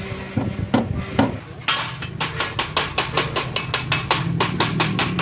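Hammer blows on metal: a few separate knocks, then from about a second and a half in a fast, even run of about five strikes a second, as in truck body work.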